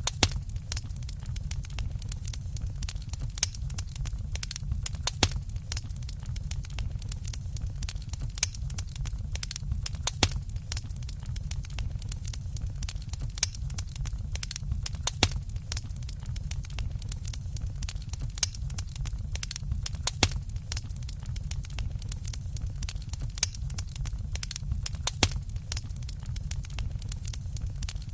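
Wood fire burning with a steady low rumble and frequent irregular crackles and pops, a few sharper snaps standing out.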